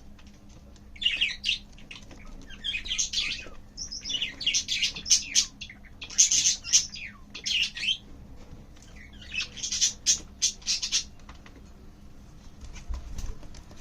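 Budgerigar chirping in repeated short bursts about a second long, with brief pauses between them, dying away over the last few seconds.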